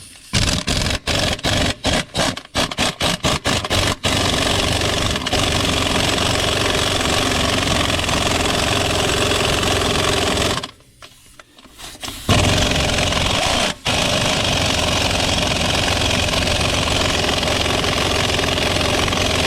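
Pneumatic impact wrench set to reverse, taking the lug nuts off a trailer wheel. For the first four seconds it gives a quick series of short trigger bursts, then runs in long steady stretches as the nuts spin off, stopping about ten seconds in and briefly again near thirteen seconds.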